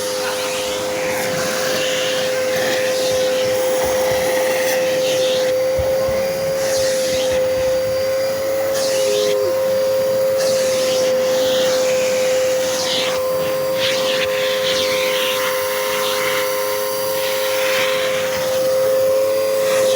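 Miele bagged upright vacuum cleaner running continuously, its motor giving a steady whine. A rushing of air swells and fades irregularly as the machine is worked over the carpet.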